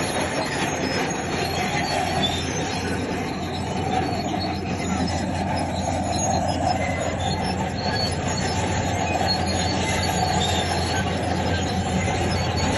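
Crawler bulldozer working: its diesel engine runs steadily while the steel tracks make a continuous metallic grinding noise.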